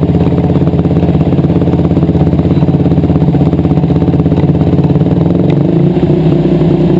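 Yamaha YFZ450 single-cylinder four-stroke engine running steadily on a dyno test stand during break-in, its firing pulses rapid and even. About five and a half seconds in, the engine note changes slightly.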